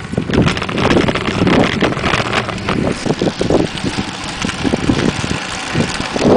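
Strong wind buffeting the microphone of a camera on a moving bicycle, a loud, gusty rumble with irregular thumps: riding into a headwind of about 30 mph.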